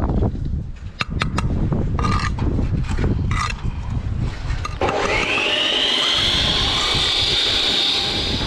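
A few sharp clicks and scrapes of handled tools or bricks, then an electric power tool starts about halfway through, its motor whine rising quickly and holding steady and high until the end. Wind rumbles on the microphone throughout.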